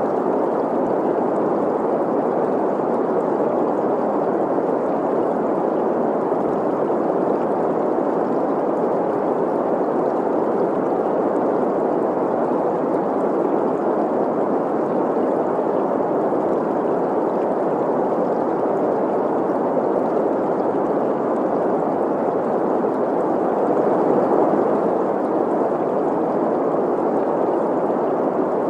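Steady green noise, a mid-pitched hiss centred around 500 Hz, blended with the running and gurgling of a stream. It holds constant with no breaks or changes.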